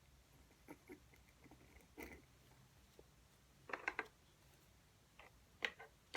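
Faint, scattered clicks and taps of someone working at a desk, over a faint low hum. A quick run of about four clicks comes near the middle and a smaller group near the end.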